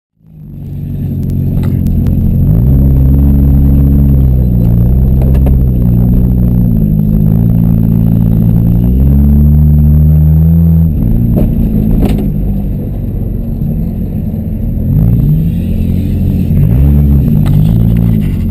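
A demolition-derby car's engine running loud, revving up and falling back several times, with a few sharp knocks.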